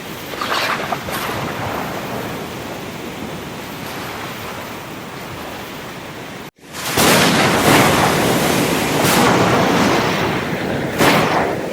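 Ocean surf, with waves breaking in several sharp crashes over a steady wash. The sound cuts out abruptly about six and a half seconds in, then comes back louder and fuller.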